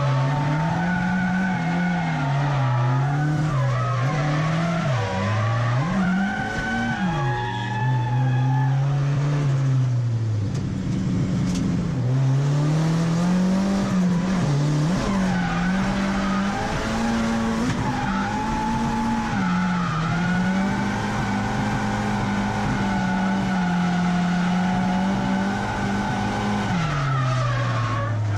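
Drift car engine held high in the revs, pitch rising and falling continually as the throttle is worked, with skidding tyres under it.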